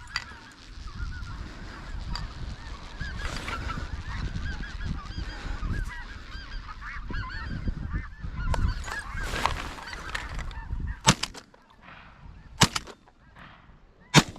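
A large flock of snow geese calling all at once in a dense clamour, then three shotgun shots about a second and a half apart near the end.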